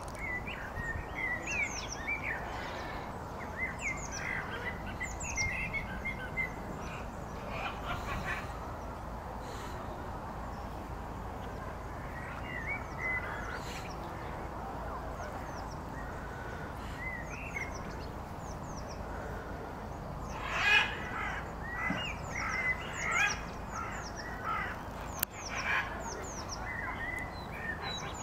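Small birds chirping in many short, quick calls, busiest in the first few seconds and again about twenty seconds in, over a steady low background rumble.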